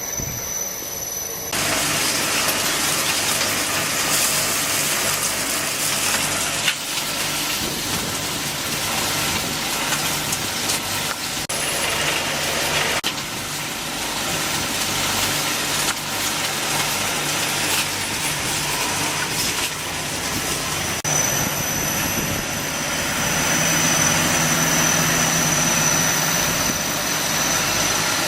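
Continuous carbonization furnace plant running: a steady machinery noise with low hum and a thin high whine. The sound shifts abruptly near the start and again about two-thirds through.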